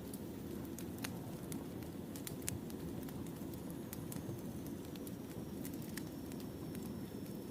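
Wood fire crackling: a steady low rumble of burning logs with irregular sharp pops and snaps throughout.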